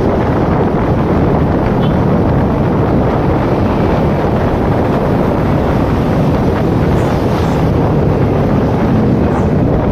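Steady wind noise on the microphone of a moving motorcycle, with a low rumble from the ride underneath.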